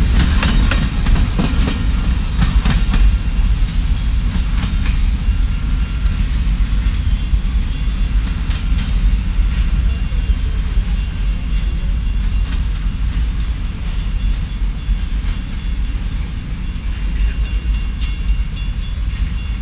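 Empty coal hopper cars of a freight train rolling past with a steady low rumble. High wheel squeal and clacks come over the first few seconds, then the rumble carries on with fewer of them.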